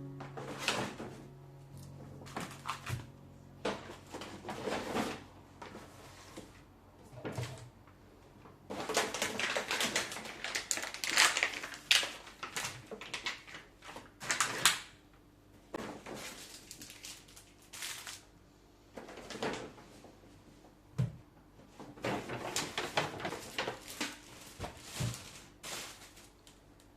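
Irregular household handling sounds: knocks, clatters and rustling, with a busier stretch of handling in the middle.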